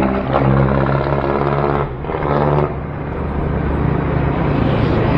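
Motor vehicle engine running close by in traffic, a steady droning hum that fades out a little under three seconds in, leaving rough road and wind noise.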